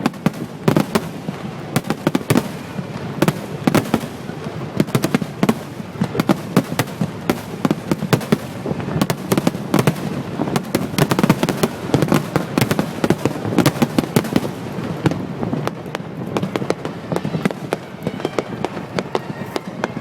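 Fireworks display: a dense, continuous barrage of aerial shell bursts and crackling reports, many a second.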